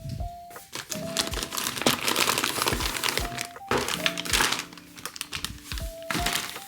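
Packaging crinkling and rustling as it is handled, in irregular bursts over background music.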